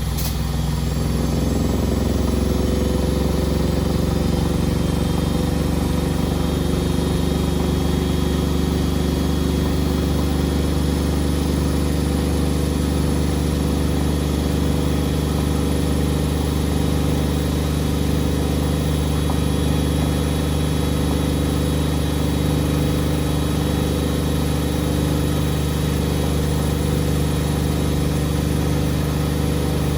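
Beko WMD 46160 washing machine spinning: its drum motor comes up to speed in the first couple of seconds, then holds a steady hum and whine at high spin speed.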